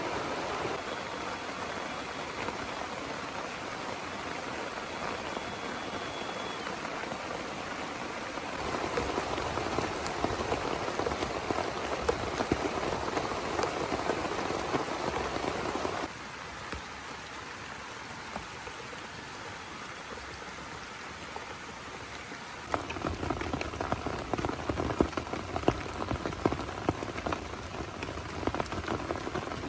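Heavy rain falling, with sharp individual drop hits in the last part. The sound changes abruptly three times, about 8, 16 and 23 seconds in, as if cut between different spots.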